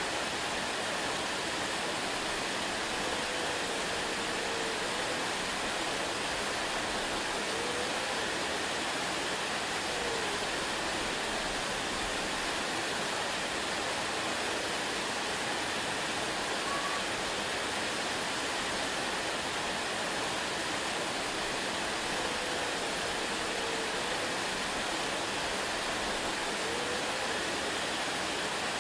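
Waterfall rushing in a steady, unbroken roar of falling water, with a few faint short whistle-like tones now and then beneath it.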